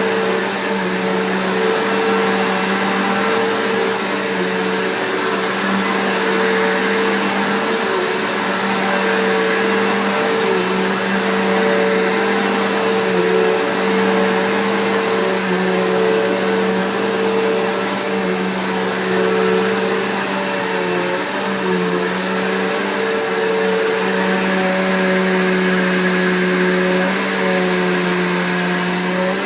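Bissell PowerForce Bagged upright vacuum cleaner running, a loud steady motor hum with a rushing airflow hiss whose pitch dips slightly now and then.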